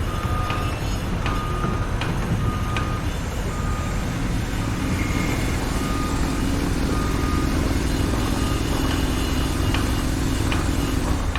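Heavy construction vehicle running with its reversing alarm beeping about once a second, the beeps fading out past the middle. A steadier engine drone comes in about four seconds in, with a few sharp clicks over the low rumble.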